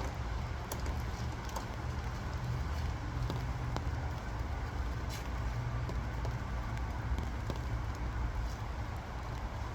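Steady low background rumble with a few faint scattered ticks.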